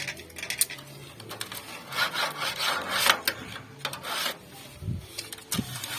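Plastic lining being pulled and scraped off an old refrigerator's sheet-metal panel: irregular rubbing and scraping strokes with a few sharp clicks, and a couple of dull knocks near the end.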